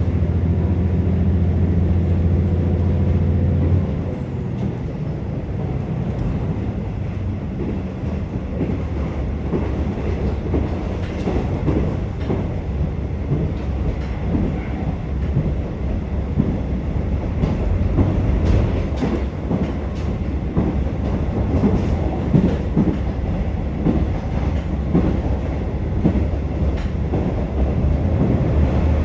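KiHa 47 diesel railcar heard from inside the car while running: the diesel engine's steady drone for the first few seconds, then it drops away as the train coasts, leaving the rumble of wheels on rail with clicks of the rail joints. The engine drone comes back near the end.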